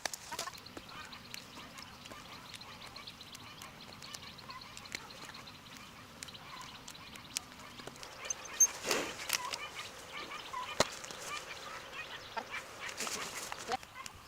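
Farm birds calling in short repeated calls, with scattered sharp clicks and knocks; the calls are busiest about two-thirds of the way through.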